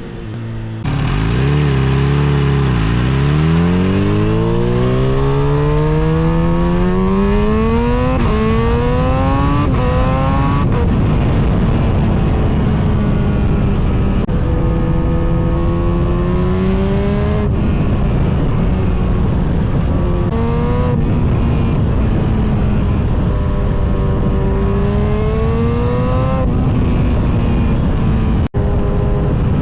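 Kawasaki Z H2's supercharged inline-four motorcycle engine accelerating hard and shifting up through several gears, over rushing wind. The revs climb steeply for the first several seconds, then drop and climb again with each upshift. The sound cuts out for an instant near the end.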